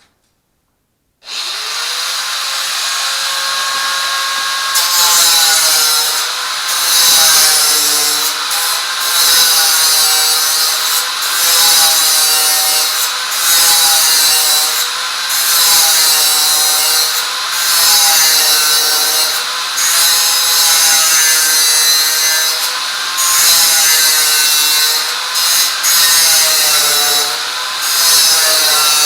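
A power tool starts about a second in and runs under load. Its motor pitch wavers up and down as it cuts, and the cutting noise breaks off briefly every couple of seconds.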